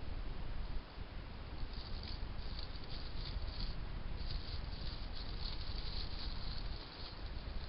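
Hedgehog rustling and scratching in dry nesting material while building its nest. The crackly rustling comes in runs from about two seconds in, over a steady background hiss and low rumble.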